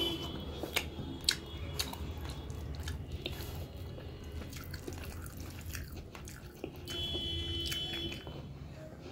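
Close-up chewing and wet mouth sounds of someone eating rice and chicken curry by hand, with scattered sharp lip smacks and clicks, and fingers working rice and gravy on the plate. A brief steady tone sounds about seven seconds in.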